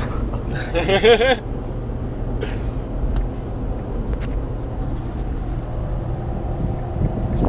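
Steady road and engine drone inside a vehicle's cabin while cruising at highway speed, around 70 mph. A short bit of voice sounds about a second in.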